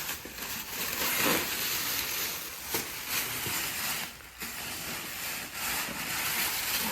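Plastic packaging rustling and crinkling as the parts of a new espresso machine are handled and unwrapped, dropping off briefly about four seconds in.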